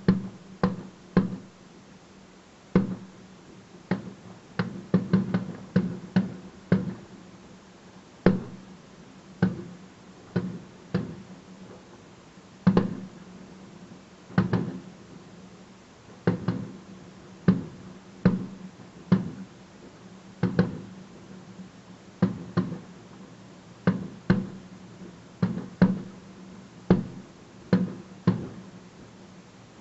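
Display firework shells bursting in a steady barrage: sharp bangs about once a second, some in quick clusters, each with a short echoing tail.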